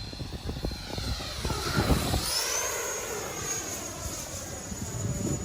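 Electric ducted-fan whine of an FMS Viper RC jet flying past. The whine climbs in pitch a little over two seconds in and then holds high as the throttle opens. Wind buffets the microphone with a low rumble.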